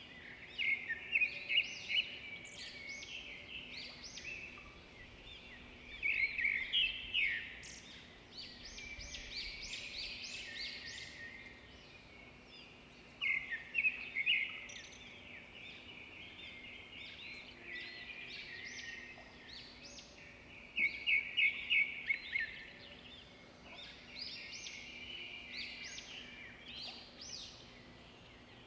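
Birds singing: bursts of rapid, high chirps and trills every few seconds, with quieter twittering between them.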